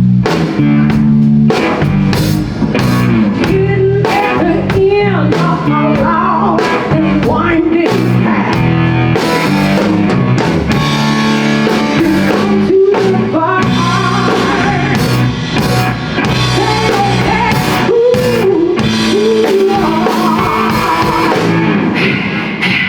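Live blues-rock band playing: drum kit, bass and electric guitar, with a lead line that bends and slides in pitch over a steady low groove.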